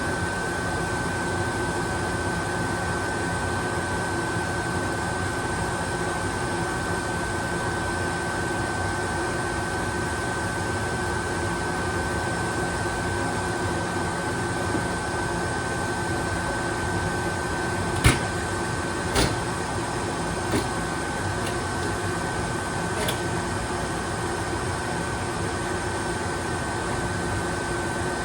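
Steady electrical hum with a constant high whine from a standing electric train's onboard equipment, such as its air conditioning and auxiliary power, while it waits during coupling. A few sharp clicks or knocks come in the second half, the loudest about two-thirds of the way through.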